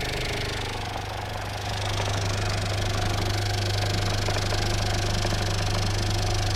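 A homemade machine driven by a reused washing machine motor, running with a steady low electric hum under a continuous rattle. It gets louder about a second and a half in.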